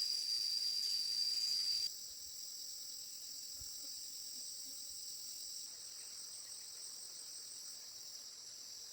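Steady, high-pitched chorus of insects. A louder single-pitched insect call cuts off suddenly about two seconds in, leaving the fainter chorus.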